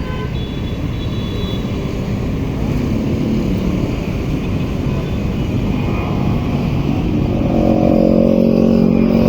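Boeing 737-800 freighter's CFM56-7B jet engines at takeoff thrust: a steady rumbling roar that grows louder, joined about seven and a half seconds in by a set of steady humming tones.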